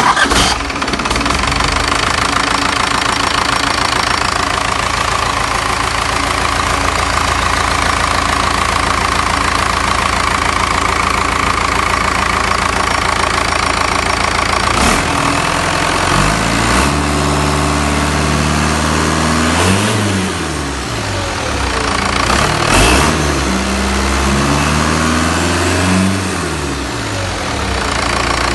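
Cummins 4BT 3.9L four-cylinder diesel engine with a mechanical VE rotary injection pump running on a test run. It idles steadily, is revved up and back down twice in the second half, and settles back to idle near the end.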